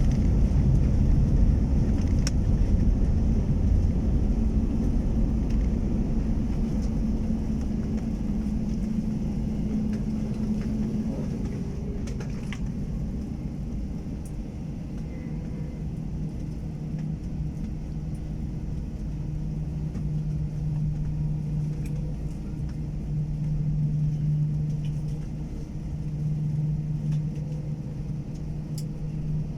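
Jet airliner engines' low rumble fading away as the Airbus A321 rolls out after landing, settling into a steadier, quieter low hum.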